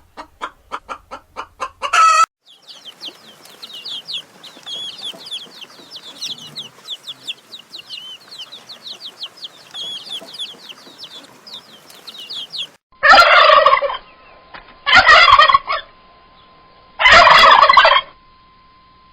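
Poultry calling: rapid clucking for about two seconds, then a long stretch of many quick, high chirps, then three loud, harsh calls of about a second each near the end.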